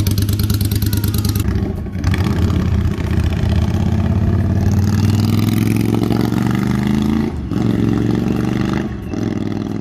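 1981 Yamaha XV750 Virago cafe racer's V-twin engine and exhaust, pulsing steadily at first, then pulling hard with its pitch climbing. The pitch drops back twice as it shifts up, about seven and a half seconds in and again near the end.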